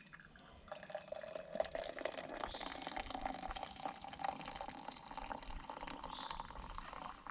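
Hot coffee poured from an aluminum camp percolator into a cup, starting about a second in. The pitch of the pour rises slowly as the cup fills.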